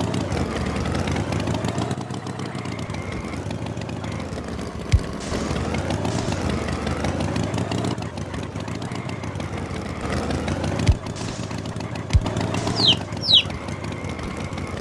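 A tractor engine running steadily as a cartoon sound effect, with a few sharp knocks and two quick falling whistles near the end.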